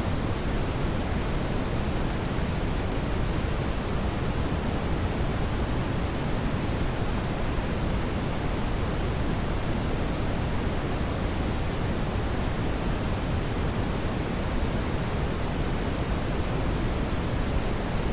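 Brown noise: a steady, even hiss weighted toward the low end, with no change throughout.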